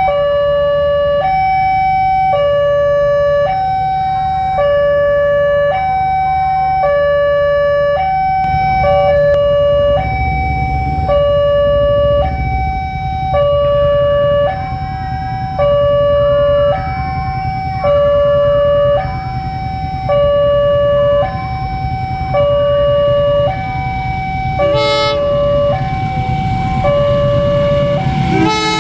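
Railway level-crossing warning alarm sounding, a loud electronic two-tone signal switching between a lower and a higher pitch about every 0.7 s, which means a train is approaching. A low rumble builds underneath from about a third of the way in, with a short horn blast near the end.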